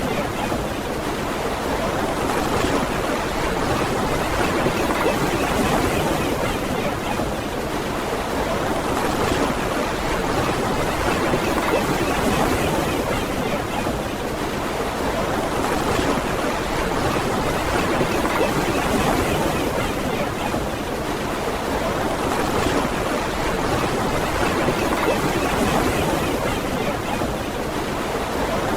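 Ocean surf washing on a beach: a steady wash of waves that swells and eases every six seconds or so.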